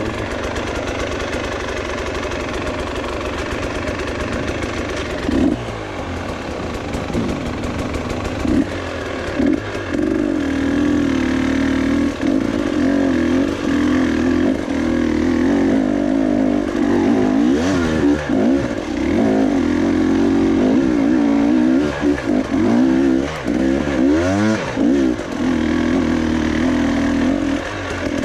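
Motorcycle engine running under way, steady for the first few seconds, then revving up and easing off again and again, with the pitch rising and falling as the rider works the throttle over rough ground.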